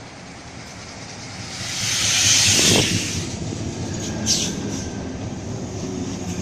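Sydney Trains Waratah A-set electric train pulling into the platform: a rising rush of wheel and air noise as the front car draws level about two seconds in, with a tone that drops in pitch as it goes by. A brief high squeal about four seconds in, then the carriages rolling past more steadily as the train slows.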